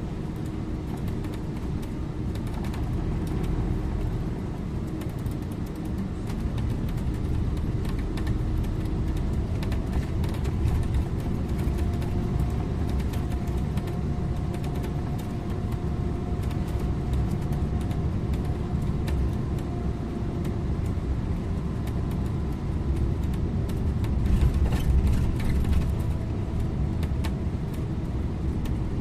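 Scania InterLink bus under way: a steady rumble of engine and road noise, with a faint whine that holds a steady pitch.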